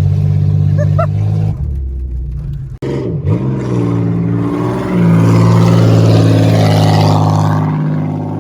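Car engine running steadily, dropping in pitch about a second and a half in. After a sudden break it picks up again and runs louder from about five seconds in.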